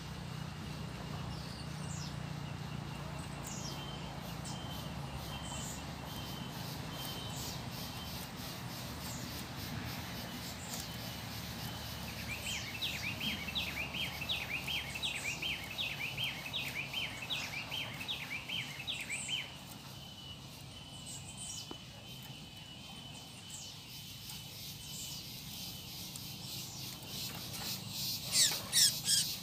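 Birds chirping in scrubland, short high calls scattered throughout, with a fast run of repeated notes for about seven seconds starting some twelve seconds in. Near the end comes a brief burst of loud rustling and knocks.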